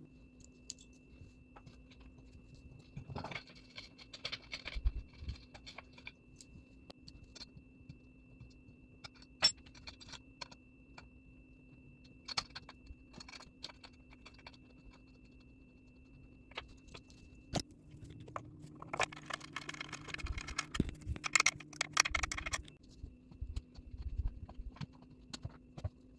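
Loose metal hardware (bolts and washers) clinking and jangling as it is handled and fitted into a wooden stool frame, with scattered clicks and knocks and a denser run of rattling about three quarters of the way through.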